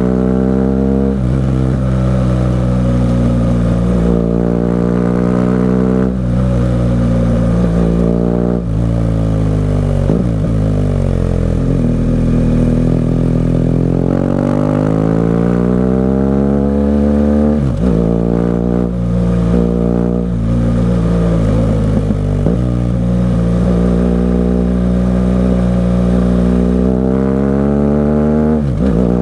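BMW R 1200 GS Adventure boxer-twin engine through an SC-Project aftermarket exhaust, heard while riding. The revs climb and fall repeatedly, with quick gear changes breaking the pitch several times. In the middle the revs sink low, then build slowly over several seconds.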